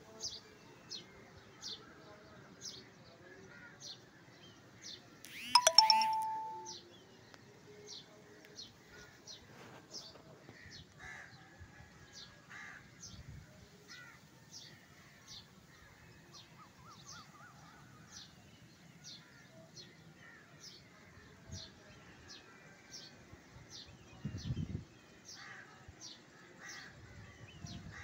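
Birds calling: a short high chirp repeated steadily about every two-thirds of a second, with other scattered bird calls in between. About six seconds in comes a brief, loud ringing chime with a held note.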